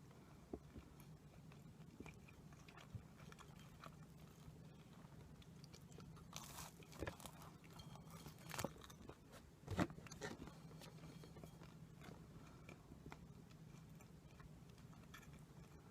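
Close-miked biting and crunching of a sweet snack, a cluster of crisp crackles and bites about six to ten seconds in, the loudest near the end of that stretch, over a low steady hum; otherwise near quiet.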